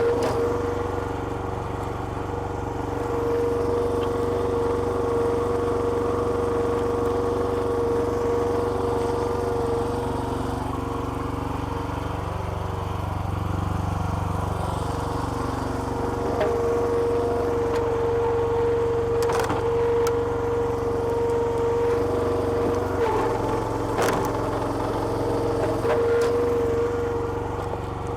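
Small petrol engine of a home-made hydraulic log splitter running steadily, with a steady whine that fades for a few seconds in the middle and again briefly near the end. A few sharp cracks come about two-thirds of the way through.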